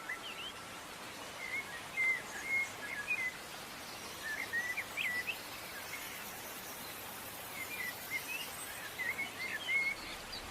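Birds chirping, with short whistled chirps and quick rising and falling notes coming in three bouts over a faint steady hiss.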